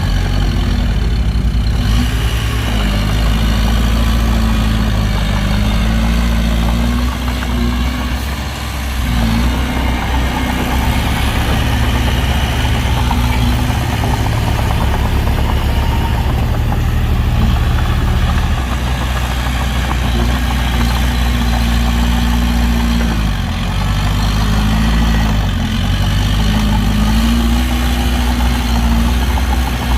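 Heavy construction machine's diesel engine running loudly, its speed shifting up and down several times and easing off briefly about eight seconds in.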